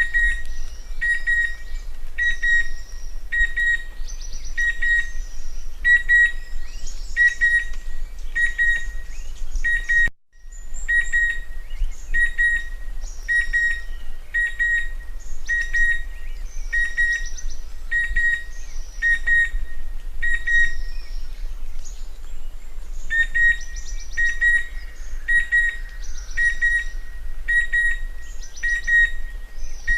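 Chestnut-winged cuckoo calling: a short, high whistled note repeated about once a second, breaking off briefly about ten seconds in and pausing again about two-thirds of the way through before resuming.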